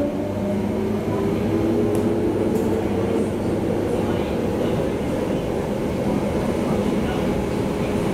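Steady running noise inside a car of an MTR IKK-train (SP1900 electric multiple unit) in motion, a continuous low rumble of wheels on rail. A faint whine in it climbs slightly in pitch over the first three seconds.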